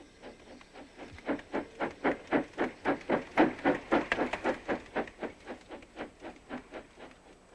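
Small steam tram engine chuffing steadily at about four puffs a second, growing louder and then fading away as it runs along the line.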